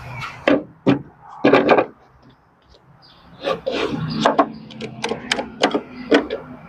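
A series of short, uneven hand strokes on wood as the corner of a wooden gate brace board is cut, with a pause of about a second and a half near the start.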